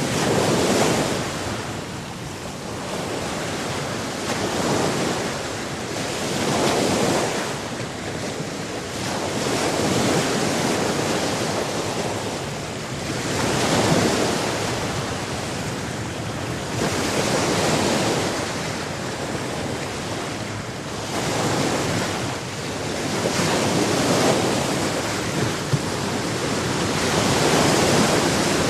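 Sea waves breaking and washing in, a steady rush of water that swells and falls back about every three to four seconds.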